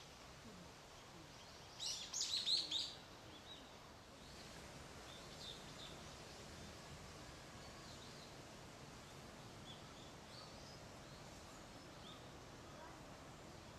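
Wild songbirds calling: a short, loud flurry of high chirping notes about two seconds in, then scattered faint high chirps over a steady background hiss.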